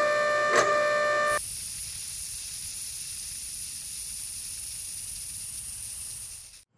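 Cartoon sound effect of water jets spraying: a steady high hiss that starts about a second and a half in and cuts off near the end. It is preceded by a machine-like hum with a regular click, about two a second, as the sprayer arms rise.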